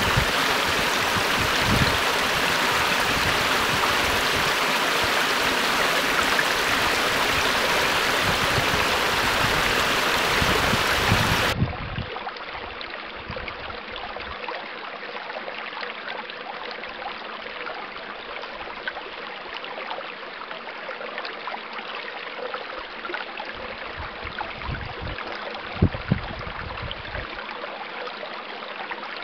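Stream water running steadily. About twelve seconds in, the sound cuts abruptly to a quieter, duller recording of running water, with a couple of brief low thumps near the end.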